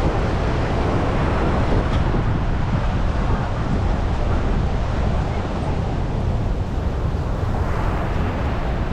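Wind buffeting the microphone in a steady rumble, over the wash of surf on a beach that swells a little near the start and again near the end.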